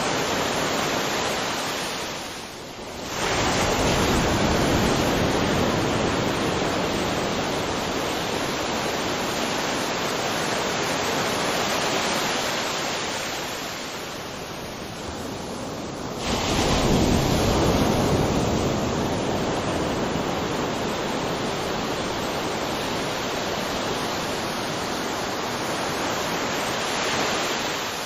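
Ocean surf breaking on a beach, a continuous wash of waves that swells and ebbs, with a big wave surging in about two-thirds of the way through.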